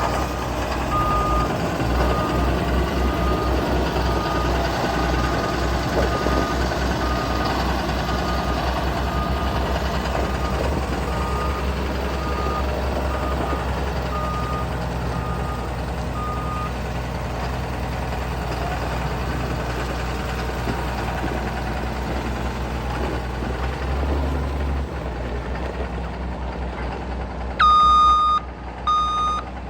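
John Deere 7520 four-wheel-drive tractor's turbocharged six-cylinder diesel engine running with a steady low throb. A faint, even beep repeats about every three-quarters of a second for the first half. About two seconds before the end, a much louder beep starts sounding in long pulses.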